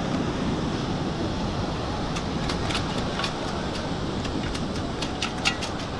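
Steady wind and surf hiss. From about two seconds in, a run of quick, sharp clicks and rattles: a sand scoop being shaken to sift out a metal-detecting target.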